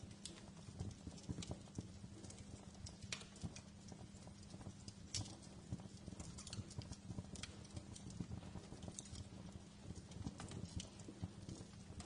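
Wood fire crackling in a fireplace: irregular sharp pops and snaps, several a second, over a low steady noise.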